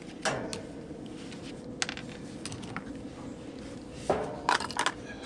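Small metal parts clicking and clattering as a condenser fan motor and its mounting hardware are handled and fitted. A few separate clicks, then a quick cluster of them near the end.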